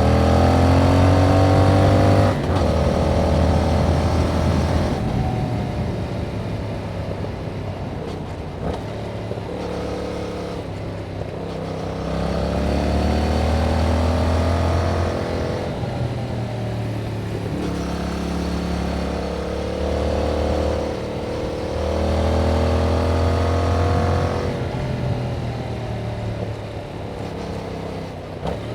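2021 Yamaha MT-07's parallel-twin engine through its stock exhaust, under way on the road: it pulls up in pitch through the gears and eases off, several times over.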